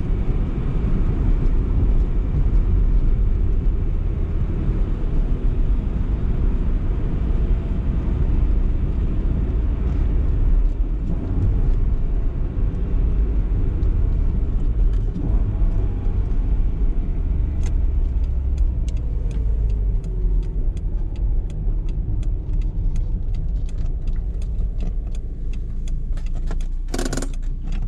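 BMW E30 318is's four-cylinder engine running at low, steady revs under road and tyre rumble while driving. In the second half a regular light ticking comes in over it.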